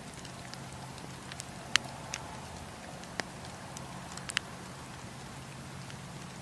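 Wood campfire burning: a steady hiss of flame broken by a handful of sharp crackles and pops from the burning wood, the loudest a little under two seconds in.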